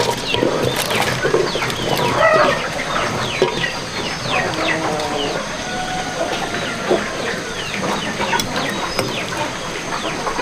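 Chickens clucking, with many short high chirps throughout.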